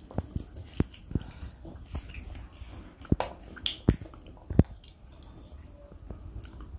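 A toddler biting and chewing grilled chicken wings: irregular sharp mouth smacks and clicks, the loudest a few seconds in.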